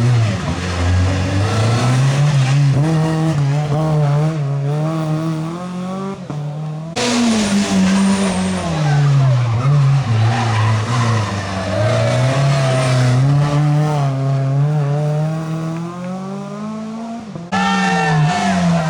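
Rally car engines driven hard, revving up and dropping back repeatedly through gear changes and corners. The sound jumps abruptly about seven seconds in and again near the end, as one car's pass gives way to another's.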